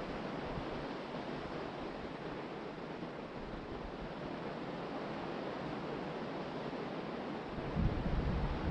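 Ocean surf washing steadily onto the beach, with wind buffeting the microphone in a low rumble near the end.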